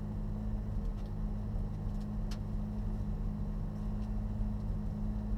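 Rally car's engine idling steadily, heard from inside the cabin, with a single sharp click a little over two seconds in.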